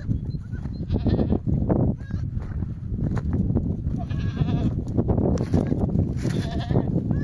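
A flock of sheep and goats bleating, many short calls overlapping one after another over a steady low rumble.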